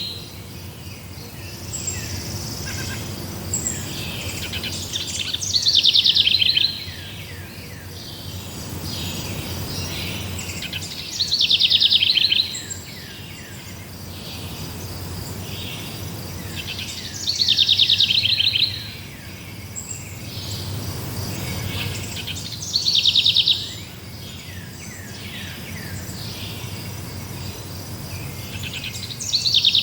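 A songbird repeating the same loud, fast descending trill about every six seconds, with fainter bird chirps in between and a low steady rumble underneath.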